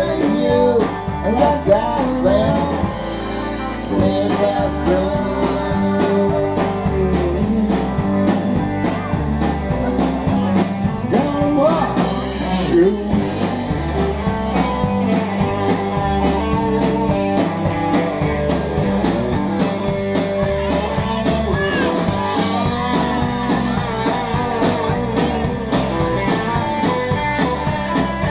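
Country-rock song with a male singer, guitar and a steady drum beat.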